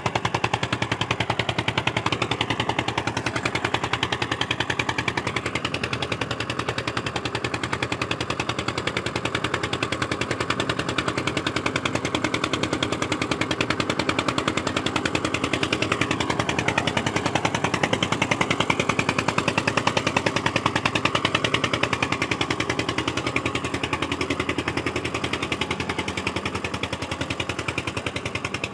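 Single-cylinder diesel engine of an Eicher 242 tractor running under load, pulling a heavy trolley of sugarcane, with a rapid, even beat of exhaust pulses. It eases off slightly near the end.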